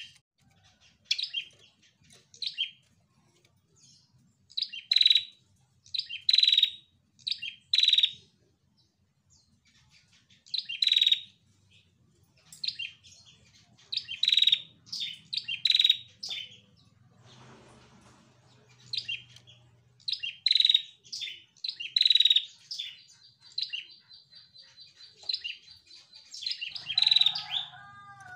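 Female prenjak calling: short, sharp, high chirps repeated in quick clusters with pauses between, running into a buzzy trill near the end.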